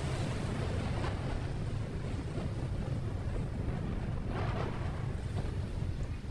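Steady low road and engine rumble of a moving vehicle, with wind noise on the microphone and a brief louder rush of noise about four seconds in.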